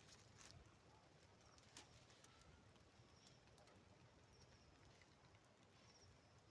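Near silence: faint outdoor background with a few soft clicks and several brief, faint high chirps.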